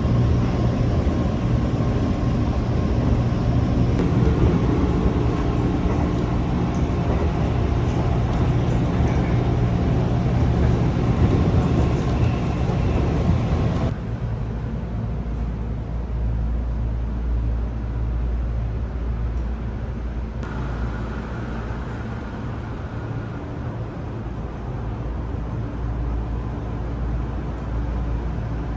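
Train running: a steady rumble with a low hum. About halfway through it changes abruptly to a quieter, deeper rumble.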